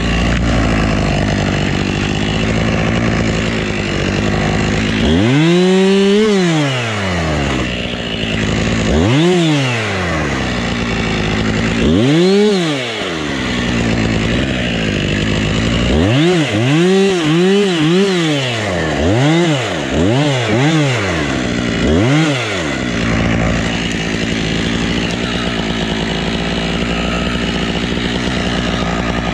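Husqvarna two-stroke chainsaw idling and being revved up and back down over and over. There are three separate revs, then a quick run of short blips around the middle, and after that it settles into a steady idle.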